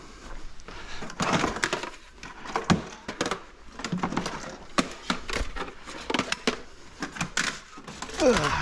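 Irregular clicks, knocks and clatter of scrap parts being handled as wire is taken off them.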